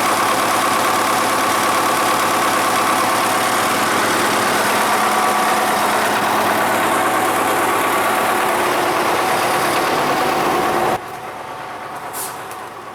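Tractor diesel engine idling steadily, cutting off suddenly about eleven seconds in to a much quieter background.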